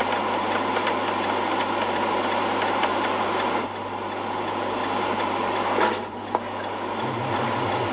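Steady vehicle engine and road noise as heard from inside a car, with faint ticking. The sound shifts abruptly about a third of the way in and again about three-quarters of the way in, as the footage cuts.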